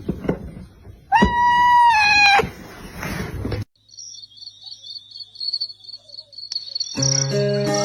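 A cat giving one loud, drawn-out meow about a second in. After a break, a rapid, high-pitched chirping trill, and plucked-string music starts near the end.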